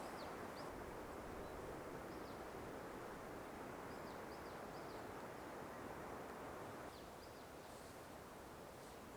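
Birds giving short, high chirps, a few at a time, over a steady rushing background noise that drops slightly about seven seconds in.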